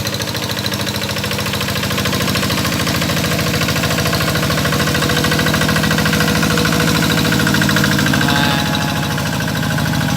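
Tractor engine running steadily with an even chugging beat while it plows a rice paddy, a little louder in the middle and easing slightly near the end.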